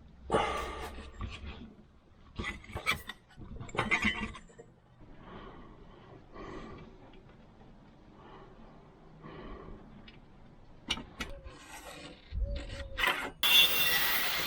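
Sheet steel being worked by hand while it is shaped and folded: a run of short rasping, scraping strokes, softer in the middle, then a few sharp clicks. A loud steady rushing noise starts near the end.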